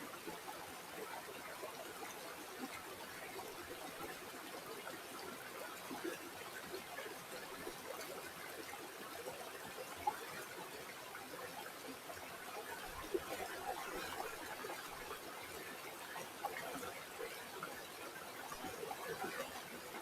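River water flowing, trickling steadily with many small bubbling splashes, and one brief sharper tick about halfway through.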